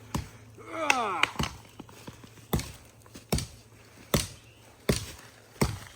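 Axe chopping into a small tree, a sharp strike about every three-quarters of a second, seven in all. A brief falling vocal shout about a second in.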